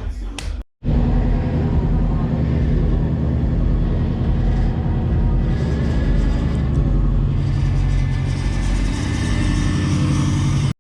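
Subaru WRX's flat-four engine running steadily while the car is driven, a continuous low engine note that starts abruptly just under a second in.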